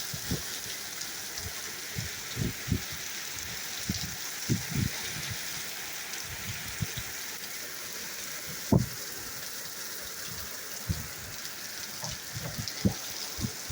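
Steady hiss of rain falling during a thunderstorm, with scattered short low thumps on the microphone, the loudest about nine seconds in.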